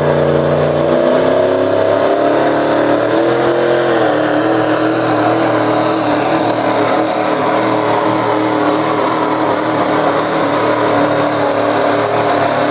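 Diesel pickup truck engine running hard at high revs under load in a truck pull, a steady loud drone that steps up slightly in pitch a few seconds in.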